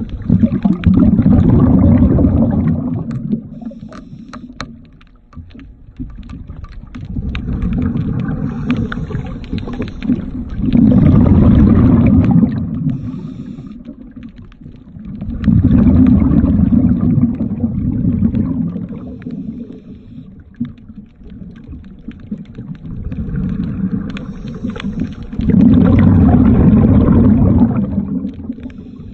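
Underwater rumble and gurgle of a scuba diver's regulator breathing, the exhaled bubbles swelling about every five seconds, with scattered sharp clicks of tools on the hull while zinc anodes are being fitted.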